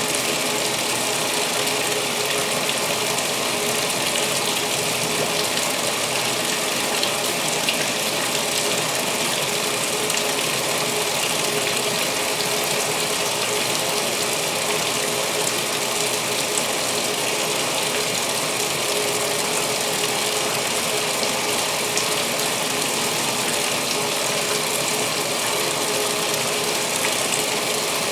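2016 Speed Queen top-load washer filling with water for the main wash: water rushes steadily into the tub, over a steady hum.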